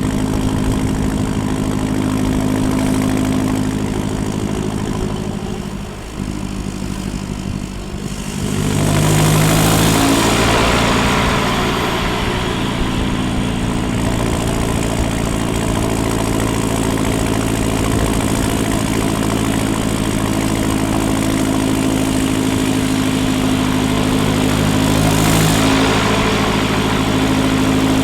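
Land Rover Defender 90's remapped 2.4 TDCi four-cylinder turbodiesel running through a straight-through exhaust, heard close to the exhaust outlet. The note dips briefly about six seconds in, then grows louder and fuller from about nine seconds on and stays there.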